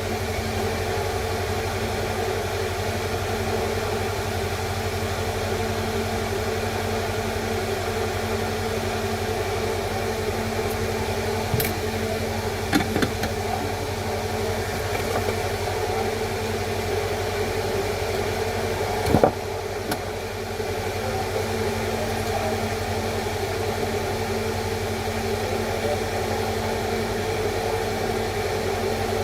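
Steady mechanical hum with a constant pitch, broken by a few sharp clicks about twelve seconds in and a louder one near nineteen seconds.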